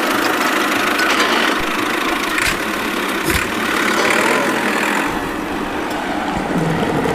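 Steady engine-like running noise from remote-control toy tractors.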